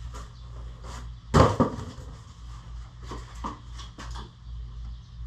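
A moving dolly being worked out from under a lifted milling machine: scattered clicks and knocks, with one loud double clunk about a second and a half in, over a steady low hum.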